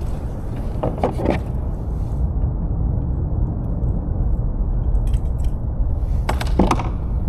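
Steady low wind rumble buffeting the microphone. Brief rattling scrapes break through twice, about a second in and near the end.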